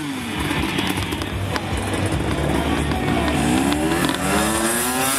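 Motocross motorcycle engine revving, rising in pitch several times, most strongly in the second half, over background music.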